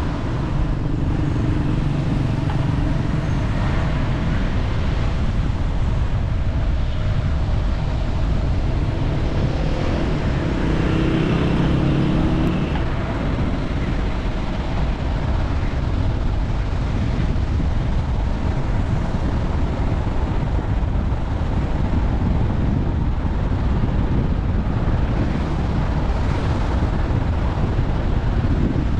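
Steady road and wind rumble of a vehicle on the move, with a pitched tone near the start and another from about ten seconds in that stops suddenly a couple of seconds later.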